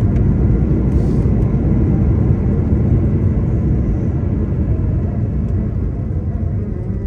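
Cabin noise of an Airbus A220 on landing: a loud, deep rumble of the engines and the airframe and wheels, easing off slowly as the plane slows.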